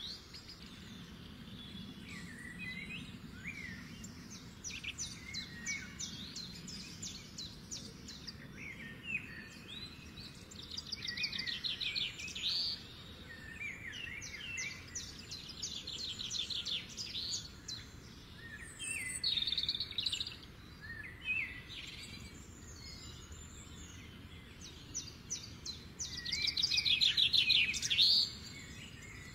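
Songbirds chirping and singing, with several fast rapid-fire trills among short chirps; the loudest trill comes near the end.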